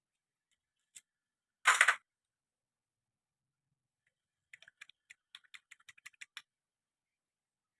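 A short loud clatter of tools or engine parts being handled, then about a dozen light, uneven clicks over two seconds.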